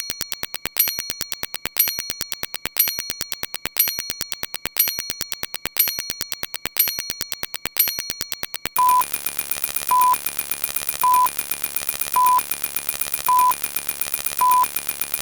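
Sound-effect clips played over and over in quick succession: a fast run of clicks, about ten a second with a brighter stroke each second, then about nine seconds in a different effect takes over, a short high beep a little over once a second above a steady high ring.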